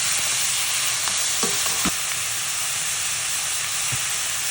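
Food frying in a pan: a steady sizzling hiss, with a few faint short clicks partway through.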